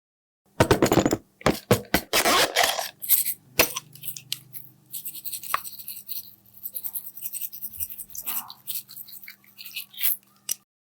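Slime being worked by hand for ASMR: a few seconds of dense, loud squishing and stretching, then quieter strings of small clicks and pops as the slime is pressed and folded.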